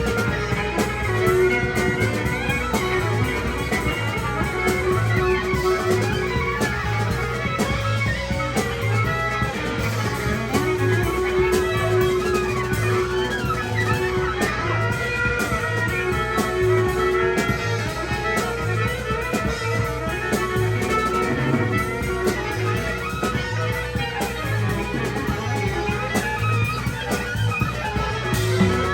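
Live band playing an instrumental passage: guitar lines over bass and drums, with an even, repeating low beat.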